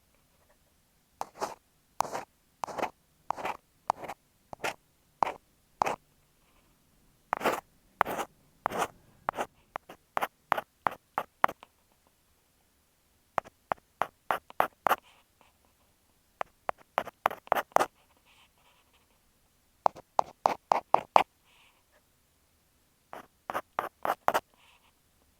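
Ear pick scratching and scraping at an earphone microphone in short strokes. The strokes come singly about once a second at first, then in quicker bursts of several a second, with short pauses between the runs.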